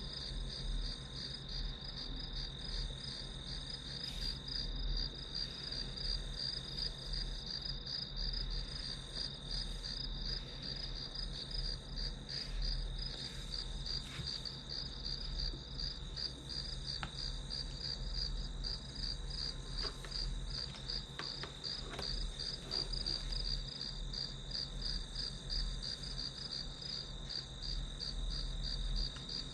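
Crickets chirping in a steady chorus: a fast, pulsing trill over a continuous high ring, with a low hum underneath.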